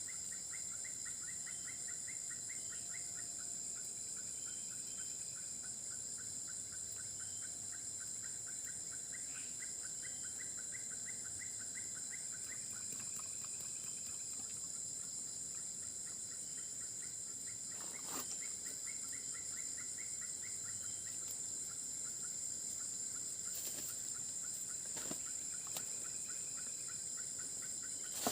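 Steady high-pitched chorus of insects, with several runs of rapid, evenly pulsed chirps from another calling animal and a few sharp clicks.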